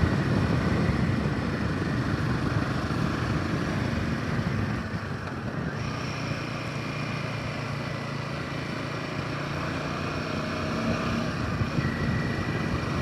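Royal Enfield Himalayan 450's single-cylinder engine running steadily while riding, under wind and road noise, with a slight easing in level about five seconds in.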